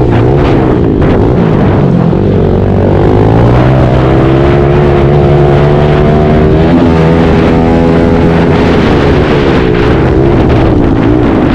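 Pit bike engines running loud, their pitch repeatedly rising and falling as the throttle is worked, with more than one engine heard at once.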